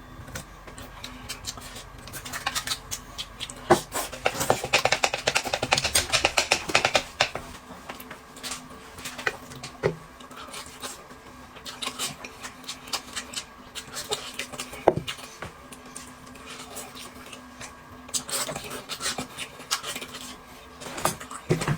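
Eating at a table: utensils clicking and scraping against bowls and plates in quick, irregular taps, busiest a few seconds in and again near the end.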